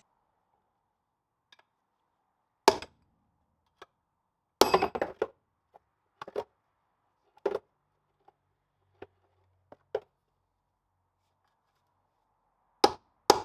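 Hammer blows on the steel brake drum of a Land Rover Series 2 front hub to drive it off, the drum held on because the brake adjuster was not backed off. Single sharp strikes a second or more apart, a quick flurry about five seconds in and two more near the end.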